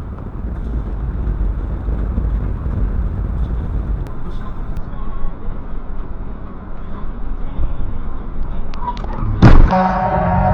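Steady low road and engine rumble of a moving vehicle, then one sudden loud bang near the end.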